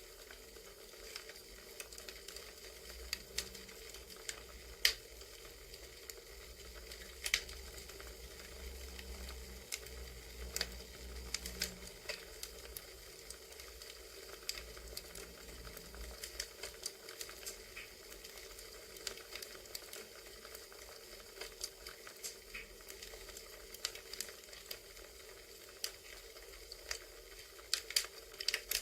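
Crackling campfire ambience: a steady hiss of burning wood with frequent irregular pops and snaps.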